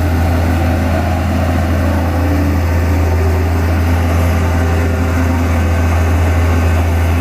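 Vibratory road roller running close by, a loud, steady, deep hum from its engine and vibrating drum, strong enough to shake the ground.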